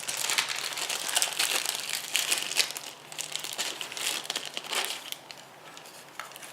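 Small plastic bag of screws being crinkled and rummaged in by hand, in irregular bursts of crackling that ease off near the end.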